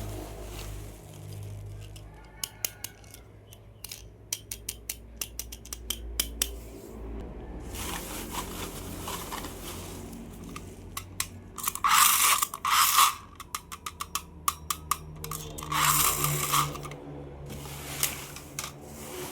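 Plastic toy cars being handled close to the microphone: runs of quick, sharp mechanical clicks, like a small ratchet, broken by a few louder scraping rustles around twelve, thirteen and sixteen seconds in.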